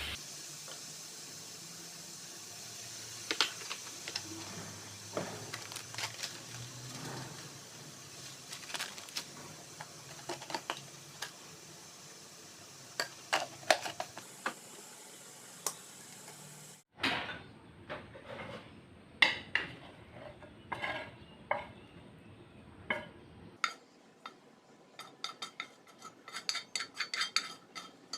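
Food sizzling in a hot pan while a metal utensil stirs it, clinking and scraping against the pan. About seventeen seconds in, the sizzle stops abruptly, and after that only scattered clinks of utensils against pans or dishes are heard.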